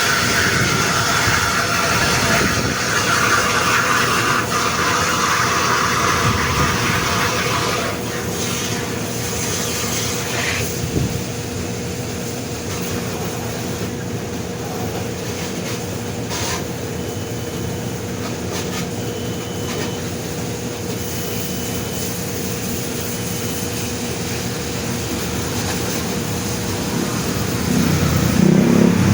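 Car wash noise: a steady machine hum under the hiss of a water spray, heavier for the first eight seconds and then lighter. A few short, faint, evenly spaced beeps sound in the second half.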